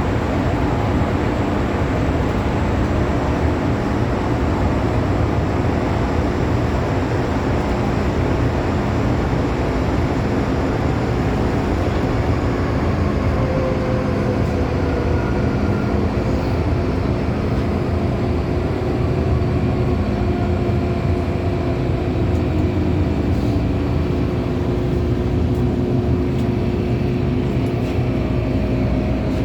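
Interior of an MTR M-Train metro car running through a tunnel: a steady loud rumble of wheels on rail and running gear. A faint high traction-motor whine falls in pitch through the second half as the train slows for the next station.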